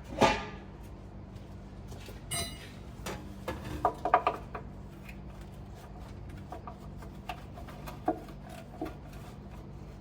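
Metal clanks and knocks from tools and parts being handled during heavy-truck repair: a loud clank right at the start, a ringing metal clink a couple of seconds in, then a quick cluster of knocks around four seconds, with a steady low hum underneath.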